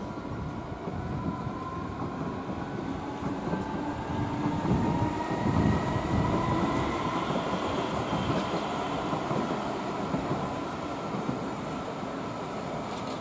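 Electric S-Bahn multiple units running through the station. The rumble of the train and its wheels is loudest about five to six seconds in, as a unit passes close by, and a faint electric whine rises slowly in pitch over the first several seconds.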